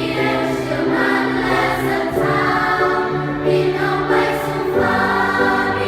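A choir singing a pop song in choral harmony, several voice parts holding sustained chords that change every second or so.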